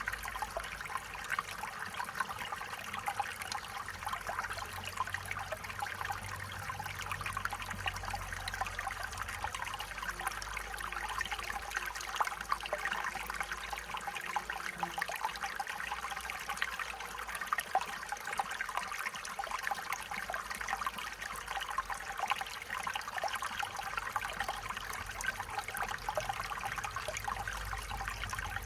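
A small stream flowing and trickling steadily, with a constant bubbling splash.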